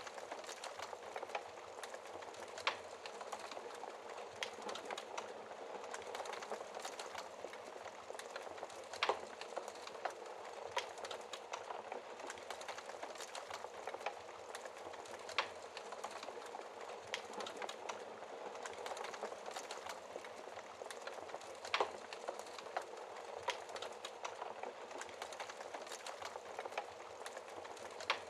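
Wood fire crackling in a fireplace: a steady bed of fine crackle with sharper pops every few seconds.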